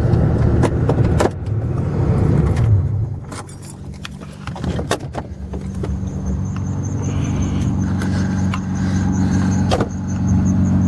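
A motor vehicle's engine running as a low, steady hum. It fades for a couple of seconds about three seconds in and then settles back into a steady hum, with scattered sharp clicks over it.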